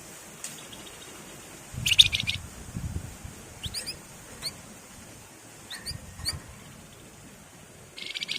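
Wergan Jawa (flamboyan) songbird singing: two short buzzy rattling trills, the first about two seconds in and the second at the very end, with a run of thin, quick rising whistle notes between them. Some soft low thuds come with the song.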